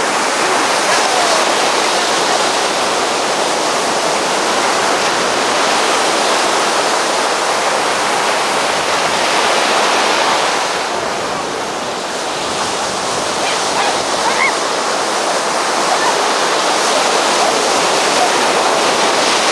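Ocean surf washing onto a beach in a steady, loud rush, easing briefly about eleven seconds in.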